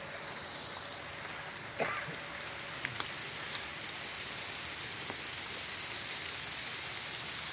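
Rain falling steadily onto the surface of a river, a constant hiss with a few louder single drops or drips now and then.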